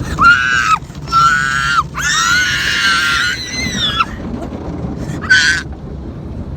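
A high-pitched voice screaming four times, the third scream long and drawn out and the last one short, over a steady low rumble of car wash machinery.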